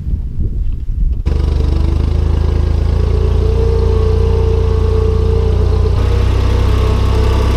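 Engine of a farm machine running steadily at a constant speed, cutting in abruptly about a second in after a low rumble.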